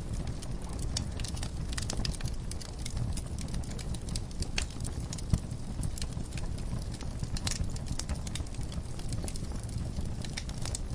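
Wood fire in a fireplace crackling, with irregular sharp pops and snaps over a steady low rumble of flame. One louder pop comes about five seconds in.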